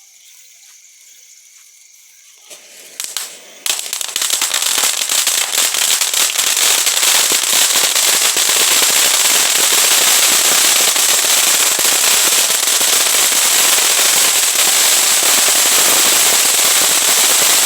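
Ground firework fountain (a "volcano") going off: a few spits as it catches about two and a half seconds in, then from about a second later a loud, steady hiss of sparks full of tiny crackling pops that carries on for about fourteen seconds.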